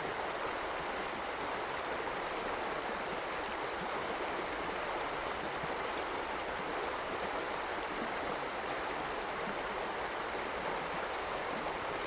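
Fast-flowing mountain stream running steadily: a constant, even rush of water.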